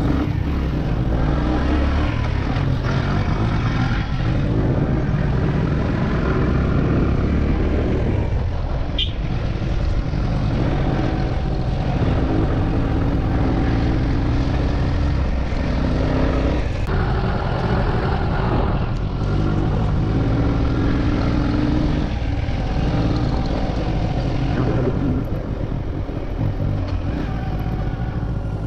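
Motorcycle engine running while riding along a road, with a steady low rumble and an engine note that shifts up and down several times.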